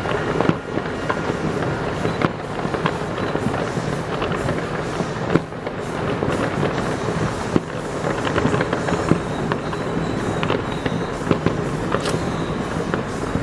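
Aerial fireworks display bursting continuously: a dense, rolling din of explosions with many sharp cracks and pops throughout.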